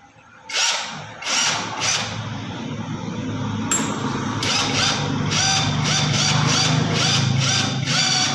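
Power impact gun with a socket running in cylinder head bolts. Three short bursts come first, then a near-continuous run from about four seconds in: a steady motor hum under repeated sharp hammering pulses.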